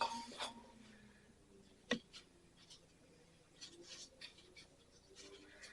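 Faint handling noises: light knocks and rustles, with one sharp click about two seconds in.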